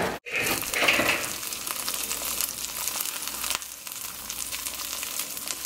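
Shredded mozzarella and pepperoni frying in a nonstick pan: a steady crackling sizzle as the cheese melts and crisps on the bottom.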